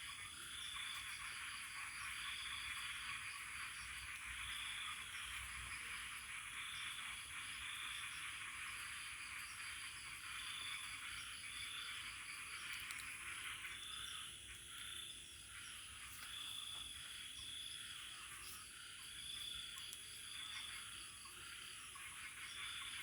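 A faint, steady chorus of frogs and insects: a continuous high buzz and trill, with a call repeating about once a second.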